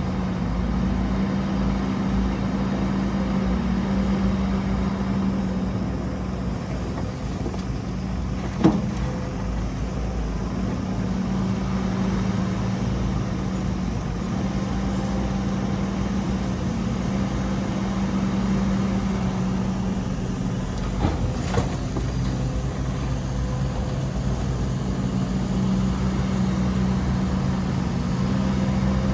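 Heavy diesel earthmoving machinery running steadily with an even engine hum. A sharp metallic knock comes about nine seconds in, and two more about twenty-one seconds in.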